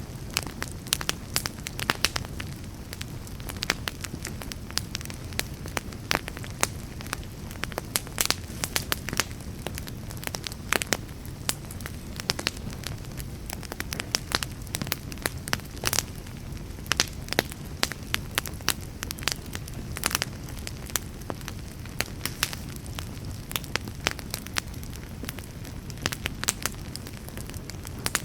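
Wood fire burning steadily with a low rumble and irregular sharp crackles and pops.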